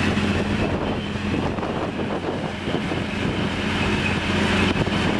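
Duct-cleaning truck's diesel engine and collector fan running steadily: a constant drone with a low hum under rushing air.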